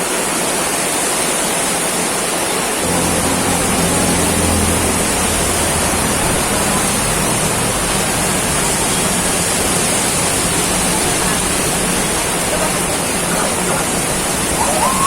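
Heavy tropical downpour: a loud, steady hiss of rain. About three seconds in, a low steady hum joins it.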